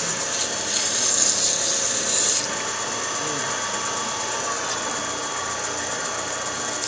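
Sandpaper rubbing on a wooden ornament spinning on a wood lathe, a steady hissing rasp that stops about two and a half seconds in, leaving the lathe running on its own.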